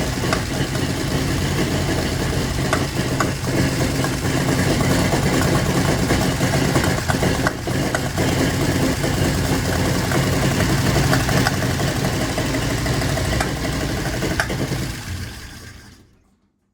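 Transplanted V6 engine in a Willys CJ2A, a Buick 225 from a 1967 CJ-5, running unevenly on its first start with scattered backfires whose cause is not yet known. Near the end it winds down and stops.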